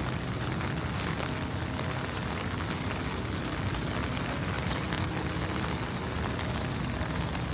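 Steady rain falling: a dense, even patter of drops with a low rumble underneath.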